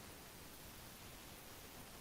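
Near silence: faint steady hiss of recording noise.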